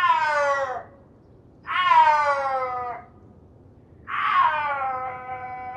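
Domestic cat meowing three times. Each meow is drawn out and falls in pitch, and the last is the longest.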